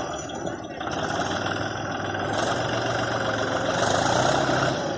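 A Mahindra tractor's diesel engine running steadily.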